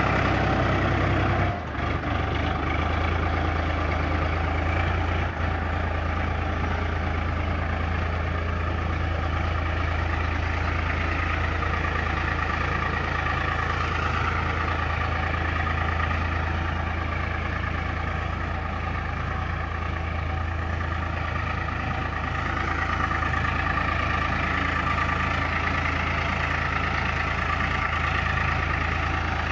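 Farmtrac tractor's diesel engine running steadily while ploughing, a constant low drone with a brief dip in level about a second and a half in.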